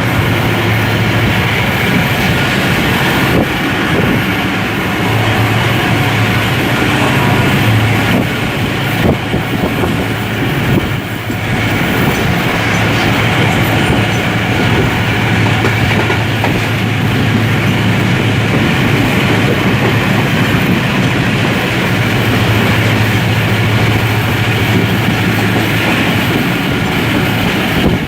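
Passenger train running along the track: a steady rumble with a low hum, and wheels clicking now and then over rail joints.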